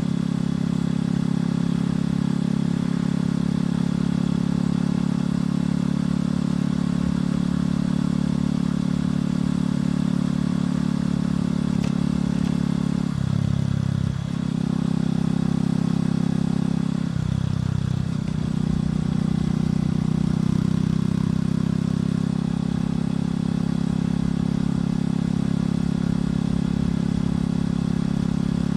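Motorcycle engine and exhaust running steadily while riding, with the engine note briefly changing pitch twice, about 13 and 17 seconds in, as the rider changes throttle or gear.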